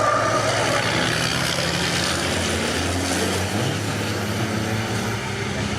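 Diesel racing trucks' engines running at speed as the trucks pass on the circuit, a steady loud roar with a low engine hum.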